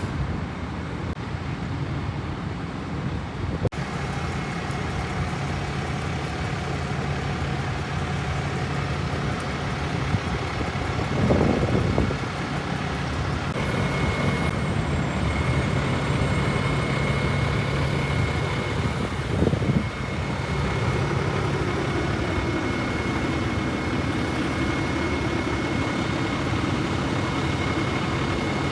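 Fire engine's diesel engine idling steadily. About halfway through, a thin steady high whine joins it, and two brief louder swells rise over it.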